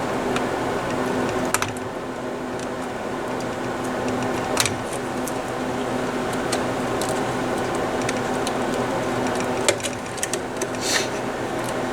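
Scattered sharp clicks and small knocks of plastic parts and clips being worked loose while a turntable is taken apart, with several clicks close together near the end. A steady mechanical hum runs underneath.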